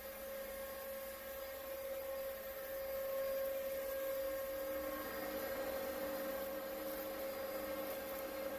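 A steady hum made of several steady tones, the strongest a mid-pitched drone, over a faint hiss; it grows a little louder about three seconds in.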